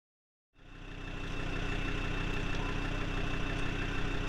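Tractor diesel engine idling steadily, fading in from silence about half a second in, with a steady high whine above the engine note.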